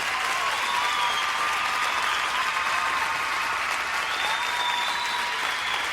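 Crowd applauding steadily, a dense even clapping at constant strength.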